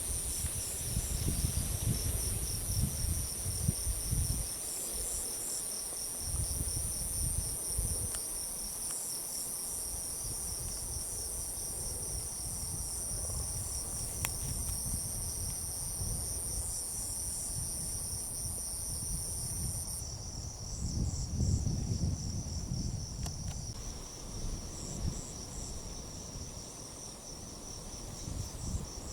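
Insects chirping outdoors: one steady, very high trill that cuts off about twenty seconds in, and a lower, rapidly pulsing chirp throughout. Gusts of wind rumble on the microphone at times, strongest near the start and again a little after twenty seconds.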